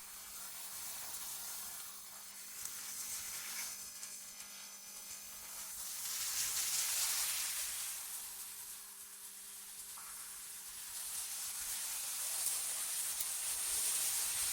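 Synthetic wind ambience: an airy, mostly high-pitched hiss that swells and fades in slow gusts every few seconds, over a faint steady low hum.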